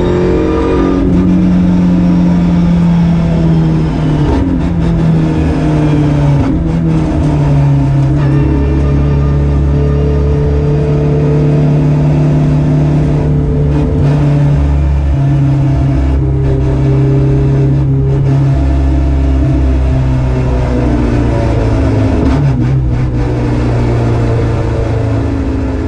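Volkswagen Golf GTI TCR race car's turbocharged four-cylinder engine, heard from inside the stripped cabin. Its pitch drops over the first second as the car slows, then it runs at low, steady revs with a few brief dips and steps in pitch. It fades out at the very end.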